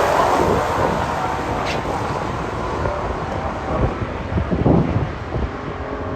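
Drag-racing muscle car engines fading away down the strip after a launch, leaving a low rumble with wind gusting on the microphone.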